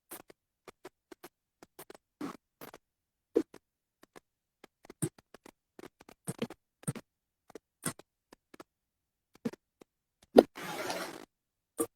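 Scattered short taps, clicks and rustles at irregular intervals, with a sharper, louder knock about ten seconds in followed by a brief rustle.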